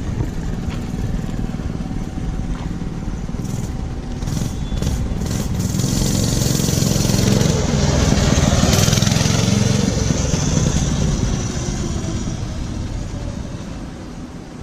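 Mega Moto 212cc minibike's single-cylinder four-stroke engine running under throttle as the bike rides toward and past, growing louder to a peak about two-thirds of the way through, then fading away.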